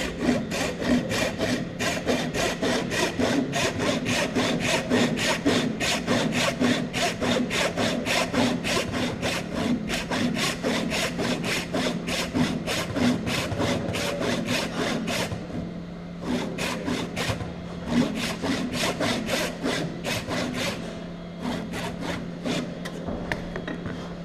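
Hand saw cutting straight down through wood in quick, regular strokes, about three a second, making the final vertical cut that frees the last triangle of waste from a tenon. The strokes pause briefly about fifteen seconds in and are lighter and slower near the end.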